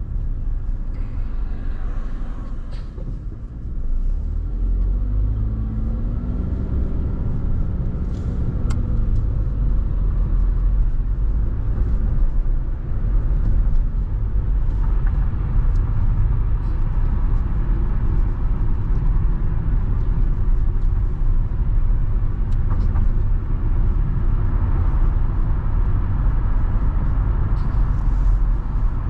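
Car driving, a steady low rumble of road and engine noise. About a third of the way in, a tone rises and falls in pitch for a few seconds.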